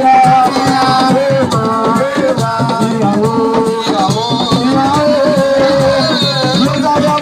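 Live Senegalese assiko music: a voice singing over drums and shakers.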